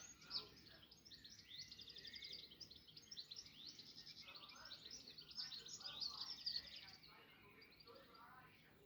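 Faint birdsong: several birds chirping and trilling in quick runs of high notes, thinning out near the end.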